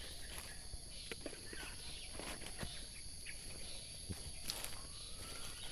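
Steady high-pitched buzzing of insects, with scattered soft clicks and rustles and one sharper click about four and a half seconds in.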